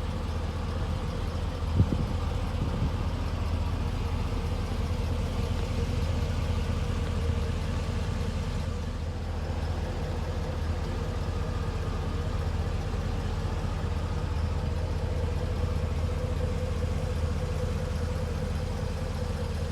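Chevy Silverado 3500's 6.0L Vortec gasoline V8 idling steadily, with a single sharp click about two seconds in.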